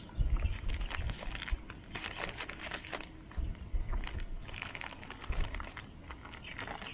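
Light metallic clinks and rattles of camp cooking gear being handled, in irregular clusters of small clicks over a low rumble.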